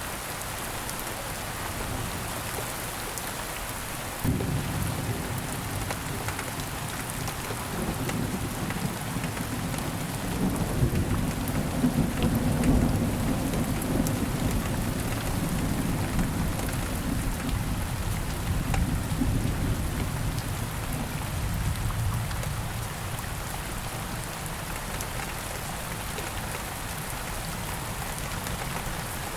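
Steady rain falling, with a long roll of thunder that starts abruptly about four seconds in, swells to its loudest near the middle and dies away well before the end.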